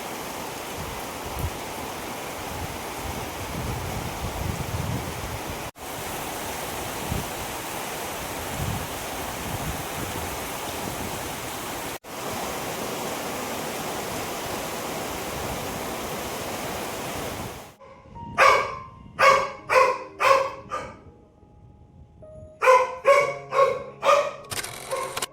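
Steady rain hiss, broken by two very short dropouts. About eighteen seconds in it cuts off, and a run of short, sharp pitched sounds follows, roughly two a second.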